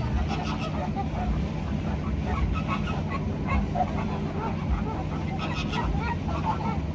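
A flock of birds honking, many short calls overlapping throughout, over a steady low hum.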